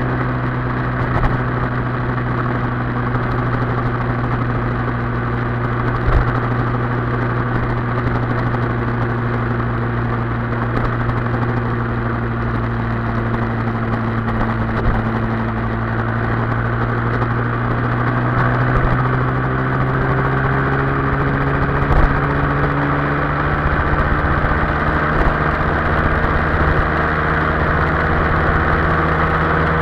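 Yamaha Y15ZR's 150 cc single-cylinder four-stroke engine running steadily at cruising speed under a steady rush of wind and road noise, its pitch rising slowly in the last third as the bike picks up speed. A couple of brief knocks stand out.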